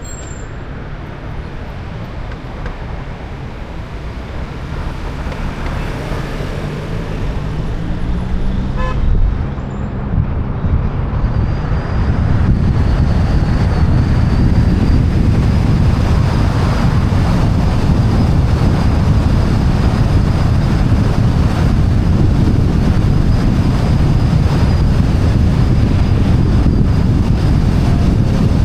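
Wind rumble and road noise picked up by a camera on the roof of a moving car, growing louder as the car picks up speed and holding steady and loud from about twelve seconds in. Before that, an engine's pitch rises as a vehicle accelerates.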